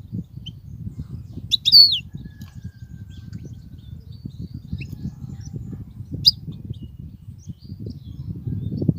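European goldfinch calling: a loud burst of a few quick high chirps about two seconds in, a single sharp note a little after six seconds, and faint scattered twitters between, over a steady low rumble.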